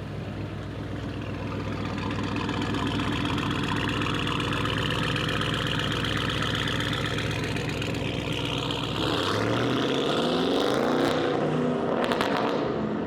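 A car engine runs steadily, then about nine seconds in its pitch climbs as it revs and accelerates.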